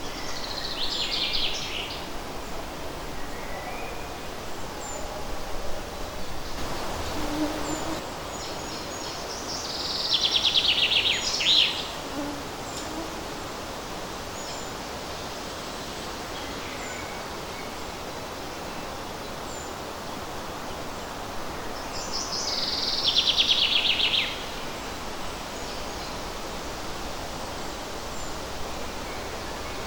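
A songbird singing the same song phrase three times, about ten seconds apart; each phrase is a rapid run of notes falling in pitch and lasting about two seconds. Underneath is a steady hiss of light wind in the forest leaves.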